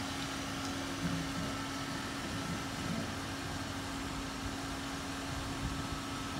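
Car engine running at a slow crawl with a steady low hum as the station wagon edges into floodwater.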